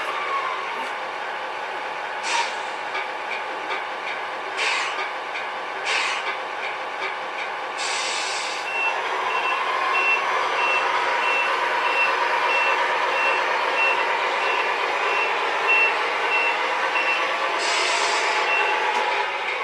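Tamiya Scania R620 RC model truck's electronic sound unit playing a simulated truck engine running, with several short hisses. About nine seconds in a reversing beeper starts, beeping evenly about twice a second for some ten seconds.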